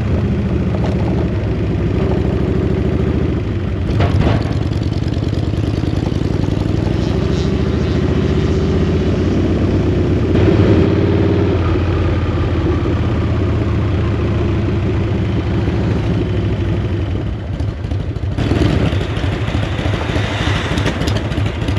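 Chopper motorcycle's Harley-Davidson V-twin engine running as it is ridden, its pitch climbing slowly and then dropping about halfway through. There is a single knock about four seconds in.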